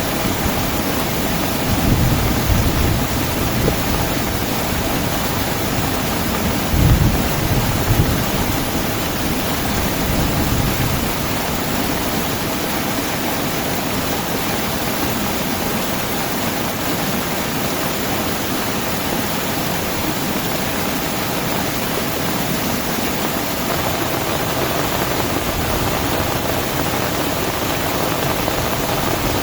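Heavy rain falling steadily, with low rumbles of thunder about two and seven seconds in.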